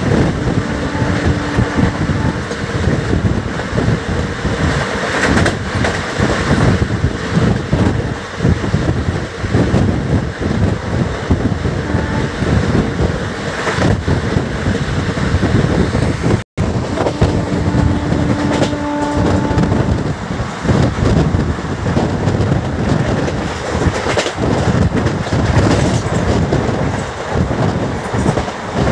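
Andaman Express passenger train running at speed: wheels clattering over rail joints with a steady rumble. It cuts out for an instant about halfway through.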